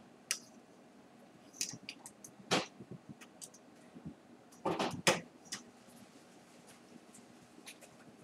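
Scattered sharp clicks and knocks, a few at a time, with the loudest pair about five seconds in.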